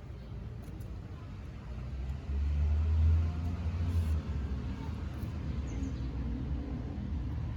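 A low rumble that swells suddenly about two seconds in and drops back about two seconds later.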